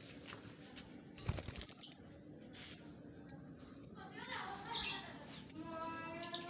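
Lovebirds chirping: a fast, loud run of high chirps about a second in, then short single chirps spaced through the rest.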